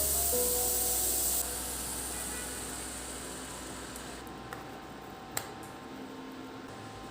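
A steady, loud hiss that drops off sharply about a second and a half in and then fades away, with a single sharp click about five seconds in.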